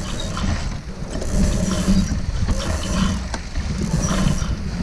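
Sailboat lines running through blocks, with a winch ratcheting in irregular spells, as the crew haul the spinnaker guy. Wind buffets the microphone throughout.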